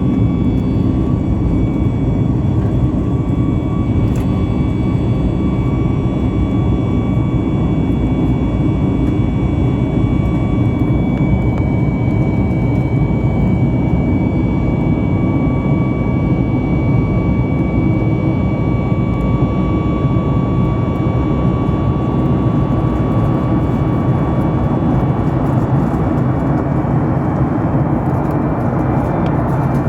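Boeing 737-9 MAX cabin noise: the CFM LEAP-1B jet engines running with a steady, loud rush and thin whining tones above it.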